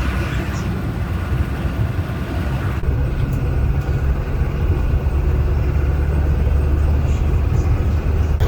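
Bus engine and road noise heard from inside the cabin while driving: a steady low rumble that grows a little louder after about three seconds.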